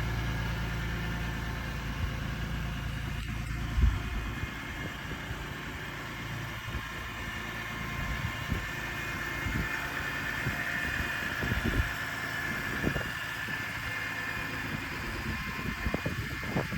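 BMW S54 3.2-litre straight-six engine idling after a cold start, with a sharp knock about four seconds in and scattered light clicks.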